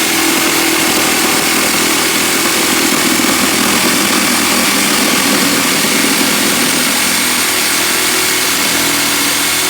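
Electric power tool running steadily, with an even level throughout.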